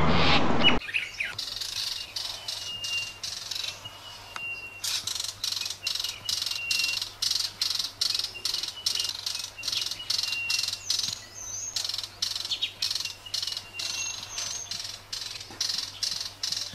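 A bird chirping in quick short notes, about three or four a second, with brief thin whistles between them. Under a second in, a louder, denser sound cuts off abruptly.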